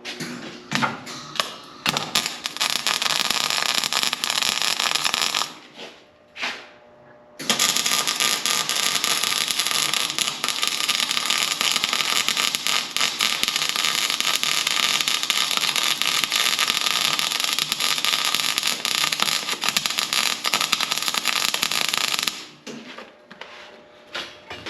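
Electric arc welding crackling in two long beads, one of about three seconds and a second of about fifteen seconds, with a few short bursts around them, as scrap steel feet are welded up.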